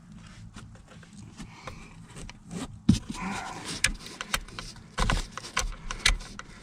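Scattered clinks, knocks and scrapes of metal tools and parts being handled, more frequent in the second half.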